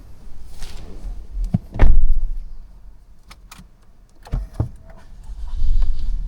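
Clicks and low thumps from handling the car, the loudest a heavy thump about two seconds in. Near the end the Lexus RX200t's 2.0-litre turbocharged four-cylinder starts and settles into a low rumble.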